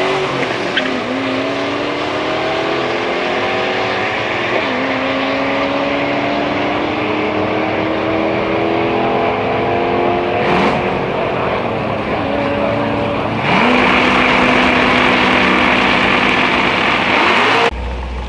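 A car accelerating hard down a drag strip at full throttle. The engine note climbs steadily in pitch within each gear and drops sharply at upshifts about 1, 4½ and 13½ seconds in. The sound cuts off abruptly near the end.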